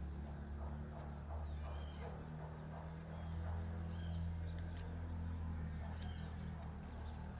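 Outdoor ambience: a bird chirping now and then, short curved calls a second or so apart, over a steady low hum and a thin, steady high tone.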